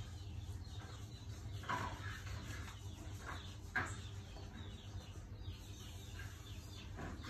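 A few short bird chirps scattered through, over a steady low background hum.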